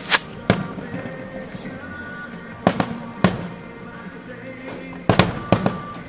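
Fireworks shells bursting in a show: sharp bangs in small clusters, about nine in all, over music playing underneath.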